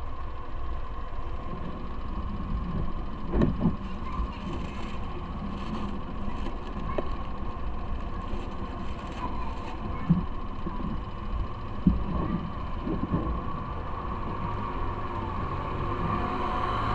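Motorbike engine running with a steady low rumble, with a few sharp knocks along the way.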